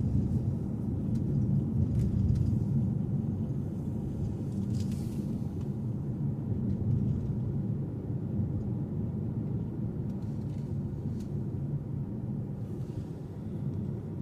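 Steady low rumble of a car driving, engine and tyre noise heard from inside, with a few faint clicks scattered through it.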